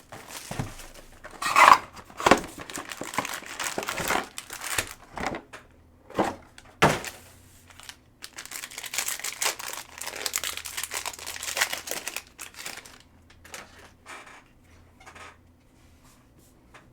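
Mosaic football hobby packs being opened: plastic wrappers crinkling and tearing in irregular bursts, with sharp clicks and rustles of handling. The sound thins out over the last few seconds.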